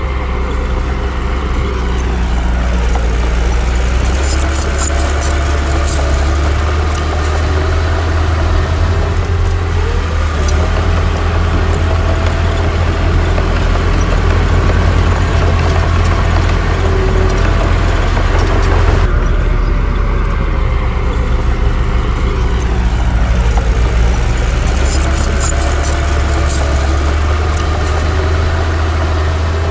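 Komatsu D60 bulldozer's diesel engine working under load, its pitch dipping and then rising again as it pushes, with a steady deep hum and scattered metallic clanks.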